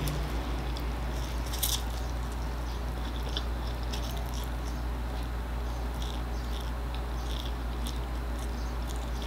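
Close-up mouth sounds of a person eating instant noodles: soft chewing with scattered short wet smacks and clicks, over a steady low hum.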